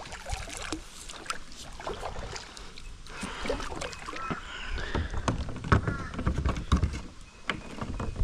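Scattered clicks, knocks and light splashing as a freshly landed Australian bass is handled, over a low rumble.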